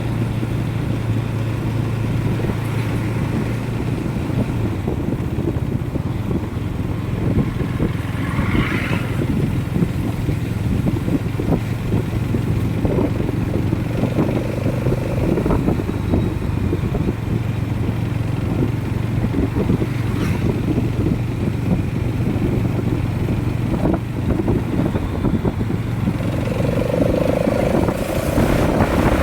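Motorcycle engine running at a steady pace while riding, with a constant low hum and road rumble.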